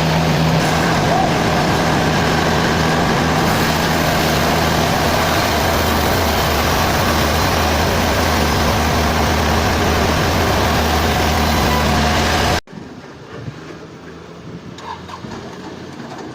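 Engine-driven sawmill machinery running loud and steady, then cutting off abruptly about twelve and a half seconds in to a much quieter engine hum.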